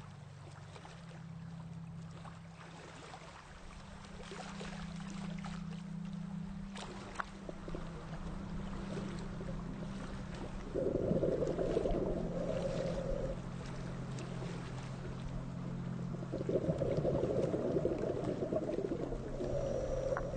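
Sea waves washing onto a pebble beach, with two louder surges of surf, one about eleven seconds in and another from about sixteen seconds to the end, over a steady wash and small scattered clicks.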